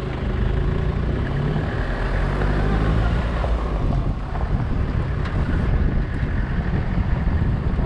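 A motor vehicle's engine running steadily, with wind rumbling on the microphone.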